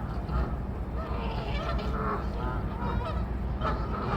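Several geese honking, short overlapping calls one after another, over a steady low rumble.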